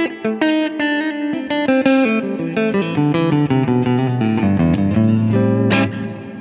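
Electric guitar played through the Poly Verbs impulse-response reverb pedal: a quick run of single picked notes that steps down into low notes, then a sharp strummed chord near the end, ringing on in the reverb.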